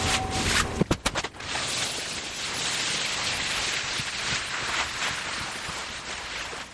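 A few sharp clicks, then a steady hissing rush from carpet-cleaning equipment working on a carpet for about five seconds, easing off near the end.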